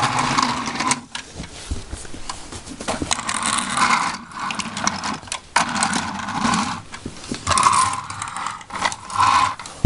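Irregular scraping, rustling and clicking of objects being handled and moved about.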